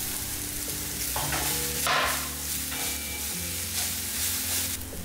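Chopped fenugreek leaves sizzling in hot ghee in a steel kadai while a wooden spatula stirs them, a steady frying hiss that swells with a few stirring strokes, about one, two and four and a half seconds in.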